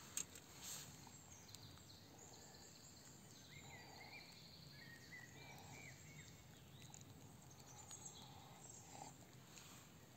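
Near silence, with faint scattered short bird chirps and a single sharp click just after the start.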